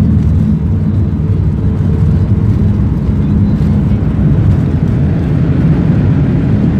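Cabin noise inside a Boeing 737 MAX airliner during landing: a loud, steady low rumble of the jet.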